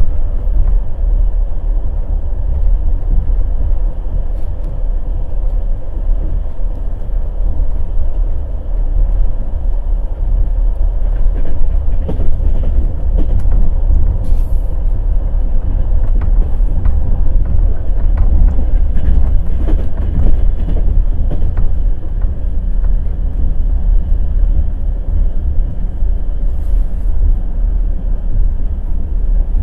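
Passenger train's wheels clattering over the rails at speed: a steady low rumble with frequent irregular clicks and knocks.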